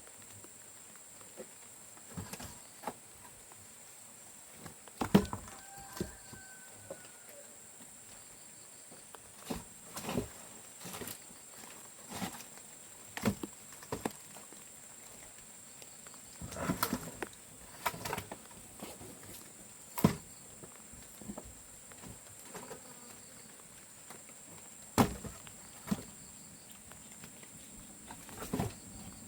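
Steady high-pitched insect drone, with irregular sharp knocks and snaps scattered through it, the loudest about five seconds in and twice more later.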